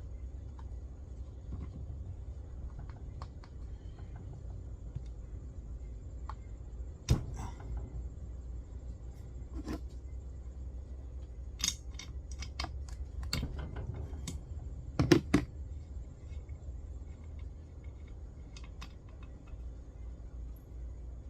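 Scattered metallic clicks and clinks of small tools and chainsaw parts being handled, with a few sharper knocks, the loudest a close pair about two-thirds of the way through, over a low steady hum.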